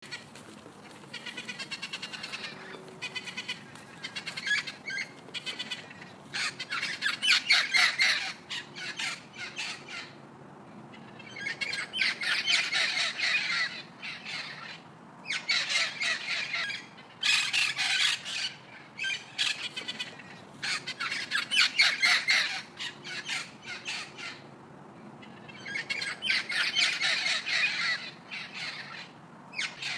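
Birds calling in rapid, harsh bouts of a few seconds each, separated by short lulls.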